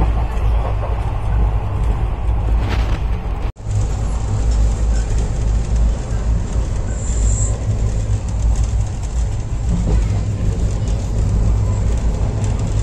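Passenger train running at speed, heard from inside the coach near an open window: a loud, steady rumble of the wheels and carriage on the rails. The sound cuts out for an instant about three and a half seconds in.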